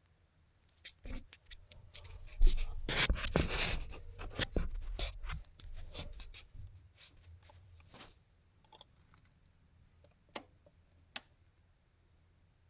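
Close rustling, scraping and light knocking of hands handling parts and tools for several seconds, then two sharp clicks near the end.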